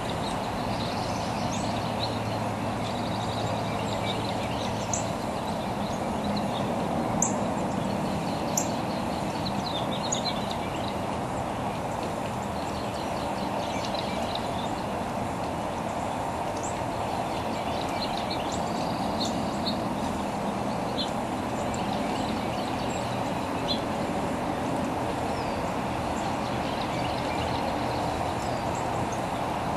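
Wild birds calling: scattered short, high chirps and a few sharp chips, over a steady low rumble of background noise.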